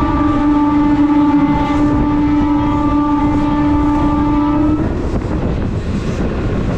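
Train locomotive horn sounding one long steady blast of about five seconds, heard loud from the coach right behind the engine, over the rumble of the moving train; the horn stops about five seconds in, leaving the running rumble.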